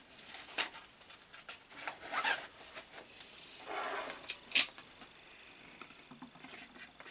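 Handling noise from working on electrical wiring: rustling and scraping with scattered small clicks, and one sharp click about four and a half seconds in.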